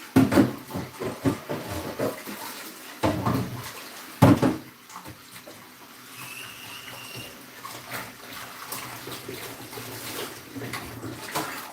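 Kitchen tap running as a chopping board and knife are washed under it, with a few knocks and clatters as they are handled in the sink.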